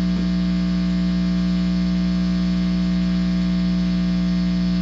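Guitar amplifier putting out a loud, steady mains hum with a buzzy edge, picked up by the bare tip of a guitar cable touching a wall. The uploader takes it for a directed-energy attack.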